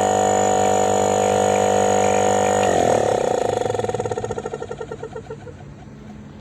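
Refrigerator compressor, opened up to show its piston and rotor, running with a steady hum, then switched off about two and a half seconds in; it winds down with a pulsing beat that slows and fades over about two seconds.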